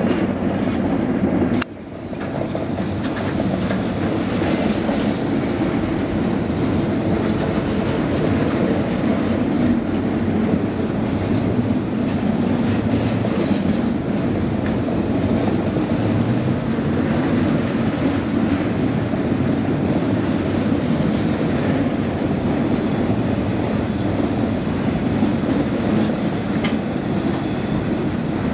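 Pipe-loaded freight flatcars rolling past: a steady rumble of steel wheels on rail with clickety-clack. A faint high wheel squeal rises near the end.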